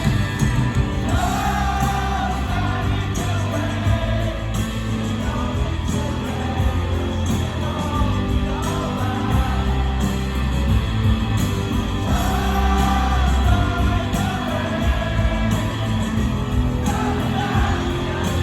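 Live rock band playing a song, with a sung lead vocal over electric guitars, bass and drums.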